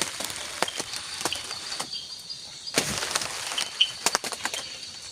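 Forest insects buzzing steadily at a high pitch, with irregular sharp clicks and cracks scattered through.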